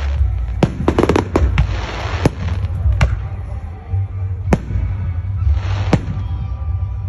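Fireworks going off: a quick flurry of sharp cracks about a second in, then single bangs spaced a second or so apart, with crackling between them over a steady low rumble.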